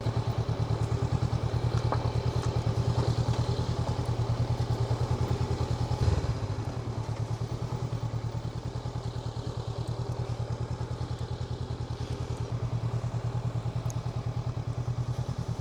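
Honda NX500's parallel-twin engine running with a steady, low pulsing beat, and a single thump about six seconds in.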